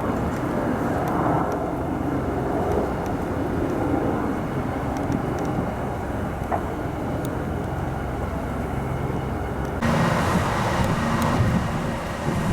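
Steady low rumble of a vehicle running. About ten seconds in it grows louder, with a hiss and a steady low hum.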